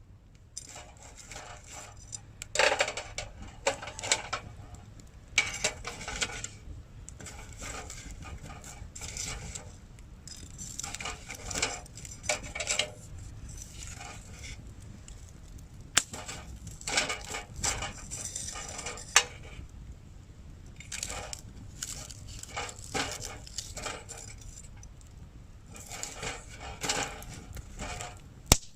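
Metal camp gear being handled: irregular clattering, scraping and clinking, with a few sharp clicks.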